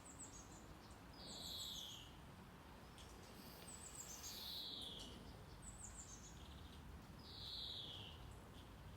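A songbird repeating one short song three times, about every three seconds: a few very high notes, then a falling buzzy trill. Under it runs a steady, soft brown-noise hiss.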